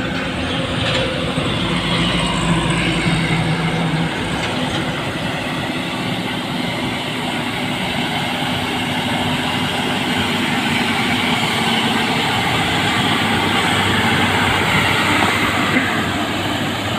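Heavily loaded Mitsubishi Fuso tronton diesel truck labouring up a steep grade, its engine running with a steady low drone under rumbling road noise, growing a little louder in the second half.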